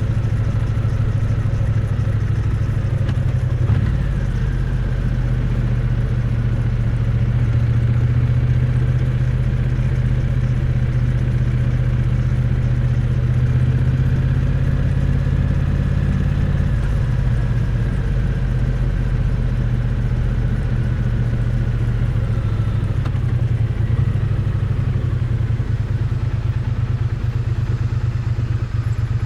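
Triumph Bonneville T100's parallel-twin engine running, its exhaust note heard close up and loud and fairly steady, with a few shifts in engine speed.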